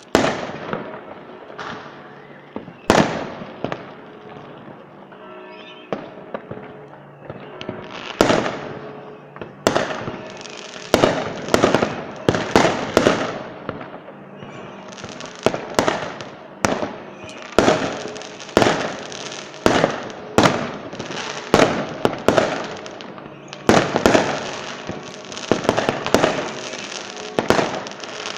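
Fireworks display: aerial shells bursting with sharp bangs and crackling tails. A few bursts come in the first seconds, then they follow steadily at about one to two a second, with music playing underneath.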